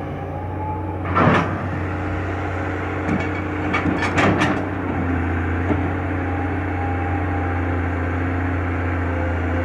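Excavator's diesel engine running steadily at a low hum, with a loud knock about a second in and a quick cluster of clanks about three to four and a half seconds in.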